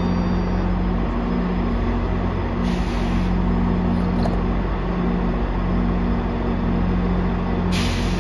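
GO Transit train idling at the platform: a steady low hum of the MP40PH diesel locomotive and coach equipment, with two tones that switch back and forth. A short hiss of air comes about three seconds in, and another starts near the end.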